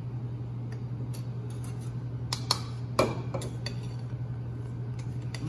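Kitchen utensils clicking and clinking against a mixing bowl at irregular moments while dry birdseed and flour are mixed together, the loudest clinks about two and a half and three seconds in. A steady low hum runs underneath.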